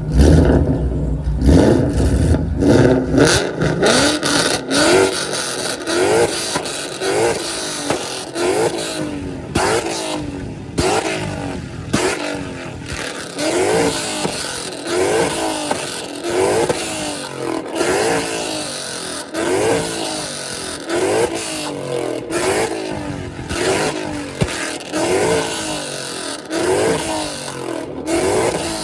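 A street car's loud exhaust revved over and over in quick blips, a little faster than one a second, with sharp exhaust pops and cracks among the revs, the kind of revving used to shoot flames from the exhaust. A deep rumble comes first, before the quick blips begin.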